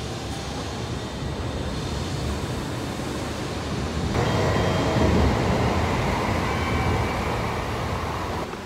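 N700S Shinkansen pulling out of the platform, a steady rushing run of wheels and air. The noise jumps up a little after four seconds as the train gathers speed past the platform, is loudest around five seconds, then slowly eases as the last cars go.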